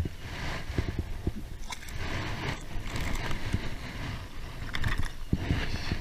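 Irregular rustling and scraping with scattered low thumps and a few sharper knocks, as of gear being handled aboard a small boat.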